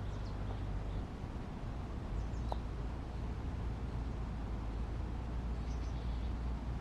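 Outdoor forest ambience: a steady low rumble with a few faint, short bird chirps, three times over a few seconds.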